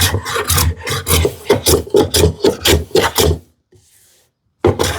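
Hand plane taking quick, short strokes across the wooden drawer sides, about four strokes a second, planing them down to pencil marks to fit the drawer. After a brief pause there is one more stroke near the end.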